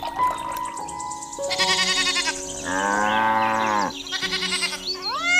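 Farm animal calls over background music: two short wavering bleats, a longer and lower call in between, and another bleat starting near the end.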